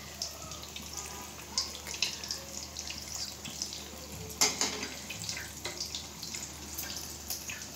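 A breadcrumb-coated chicken tikki frying in hot oil: a steady sizzle with irregular small crackles and pops, a louder burst of crackling about four and a half seconds in.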